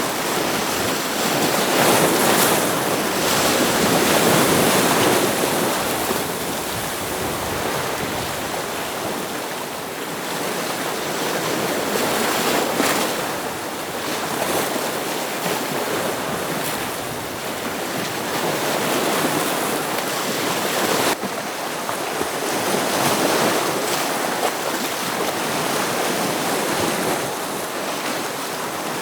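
Ocean waves breaking on rocks: a continuous rush of surf that surges louder every few seconds as each wave comes in.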